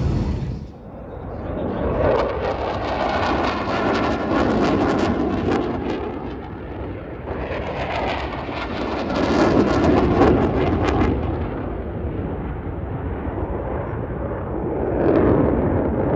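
Dassault Mirage 2000D jet engine noise as the fighter makes low passes, the roar swelling and fading about three times.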